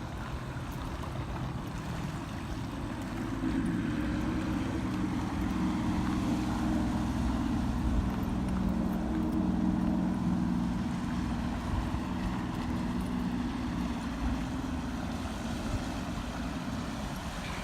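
A boat's motor running steadily on the water with a low hum, growing a little louder about three and a half seconds in.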